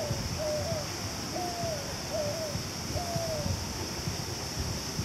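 A bird calling: a run of short hooting whistles, some in quick pairs and some drawn out with a falling end, stopping about three and a half seconds in.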